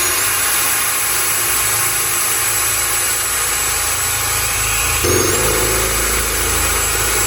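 Power drill running under steady load as it bores a drainage hole through the wall of a planter, with a high motor whine throughout. About five seconds in the pitch dips briefly and the low rumble grows heavier.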